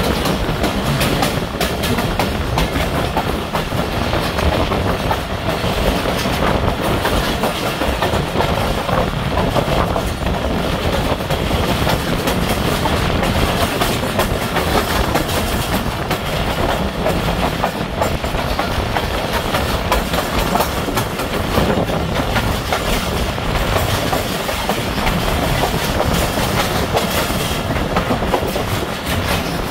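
Passenger train coach running along the track, heard from its open doorway: a steady rumble of wheels on the rails with many rapid clicks over rail joints (clickety-clack).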